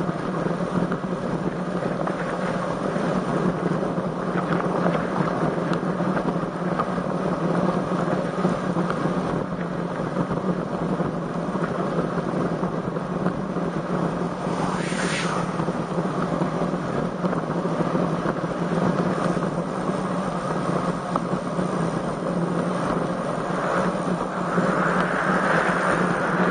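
Steady rush of wind and road noise on a road bike's camera microphone while riding in strong wind. A brief hiss comes about halfway through, and the noise grows louder near the end.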